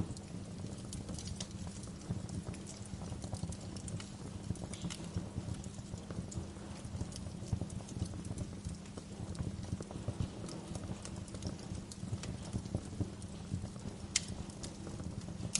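Wood fire crackling in a fireplace: a steady low rumble of the flames with frequent sharp crackles and a louder pop about fourteen seconds in.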